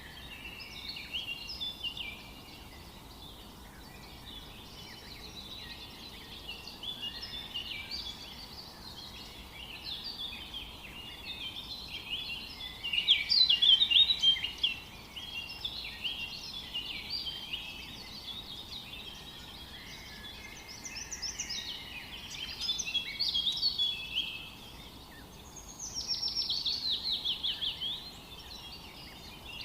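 Many songbirds singing at once in a forest, a dense chorus of chirps and trills over a faint steady hiss. A louder bird sings a burst of notes about halfway through, and a fast trill of repeated falling notes comes near the end.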